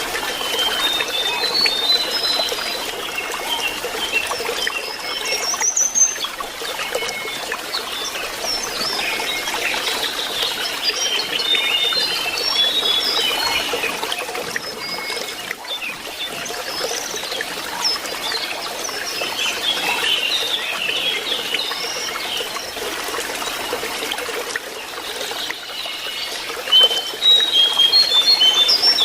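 Lesser shortwing (jongkangan) twittering in quick runs of short, high chirps over steadily trickling water. The twittering grows louder near the end.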